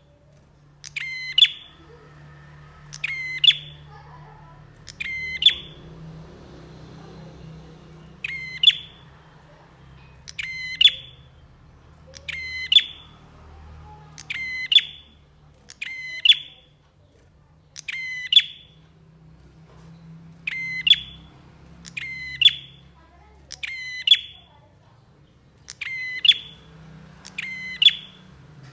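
Prenjak (prinia) calling: a short, sharp chirp repeated about every two seconds, each note rising to a high peak.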